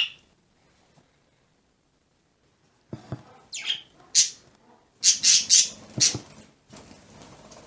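Pet bird in its cage giving short, harsh squawks, starting about three seconds in after a quiet spell, with a burst of several loud calls near the middle.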